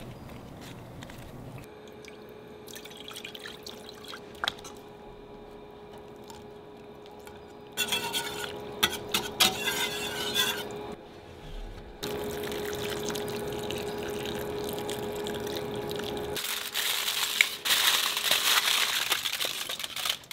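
Kitchen preparation sounds in several short clips cut together: liquid pouring or being stirred, with occasional clicks and knocks of utensils.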